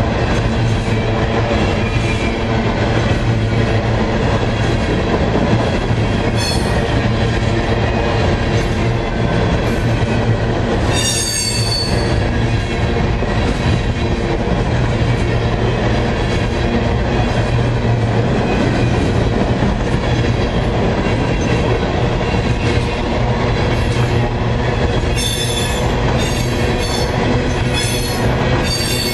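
Empty coal hopper cars of a freight train rolling past close by, a loud steady rolling noise of steel wheels on rail. High-pitched wheel squeal rises briefly about eleven seconds in and several times near the end.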